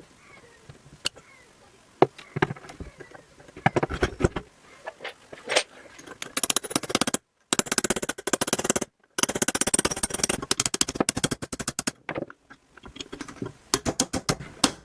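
Hand tools working on a two-stroke engine's piston as it is taken off: scattered metallic clicks and knocks, with quick rattling runs of clicks in the middle.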